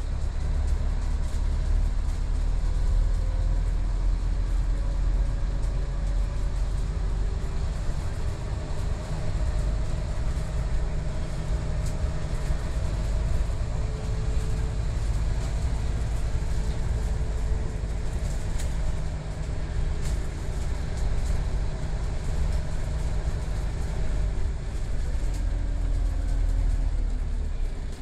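Scania OmniCity city bus running, with a heavy low rumble and a faint whine that slowly rises and falls in pitch as the engine and drive change speed.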